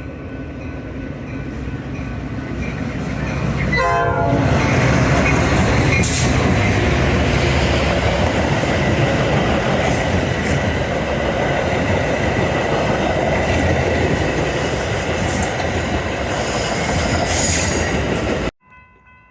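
A Metra diesel push-pull train passing through the station at speed without stopping. It grows louder as it approaches, its horn sounds briefly about four seconds in, and then comes a long stretch of loud rumble and wheel clatter that cuts off suddenly near the end.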